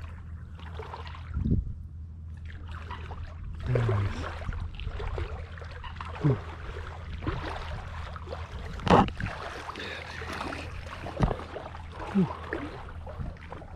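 Water sloshing and splashing in irregular strokes over a steady low rumble, the loudest splash about nine seconds in.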